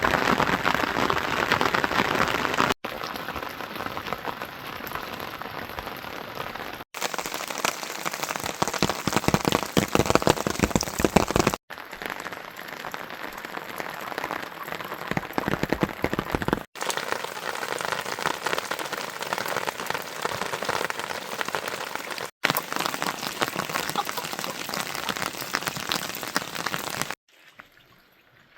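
Rain falling, a dense patter of drops. It changes suddenly in loudness and character several times, as separate recordings are cut together, and drops away near the end.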